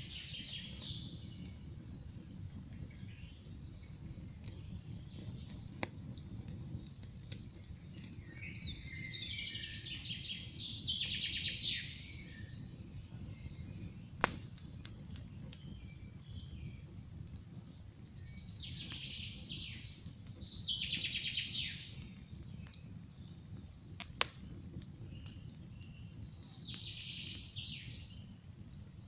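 Campfire burning with a steady low rumble and a few sharp pops of wood, the loudest near the middle and again about two-thirds through. A songbird sings three times, each a quick run of trilled notes falling in pitch.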